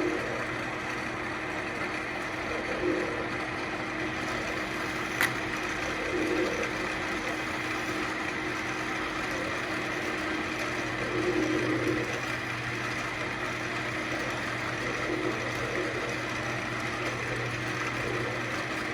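Central Machinery wood lathe running steadily, with a turning tool cutting into the spinning ambrosia maple every few seconds as the bowl's centre is hollowed out. A single sharp click about five seconds in.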